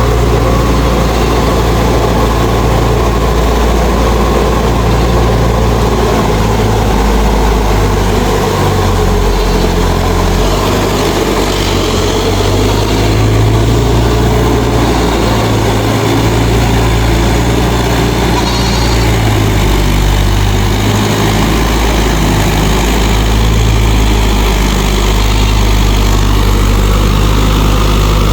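Mahindra 4WD DI tractor's diesel engine running steadily and loud, its low note wavering slightly.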